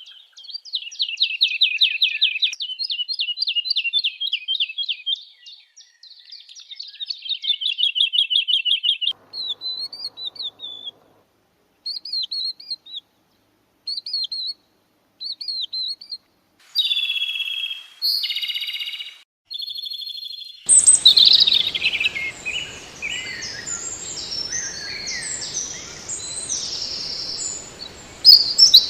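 Songbirds singing, in several recordings that follow one another: fast repeated trills first, then separate short whistled phrases, then a few varied notes, and from about two-thirds of the way in a dense, busy song over background hiss.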